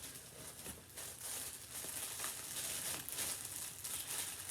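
Crinkling and rustling of clothes and their packaging being handled, getting louder about a second in.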